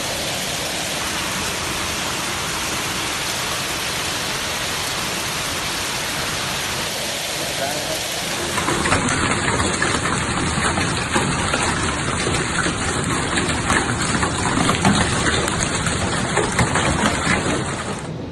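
Heavy downpour hissing steadily. About nine seconds in it switches to a louder, denser pelting with many sharp hits of hailstones striking hard surfaces.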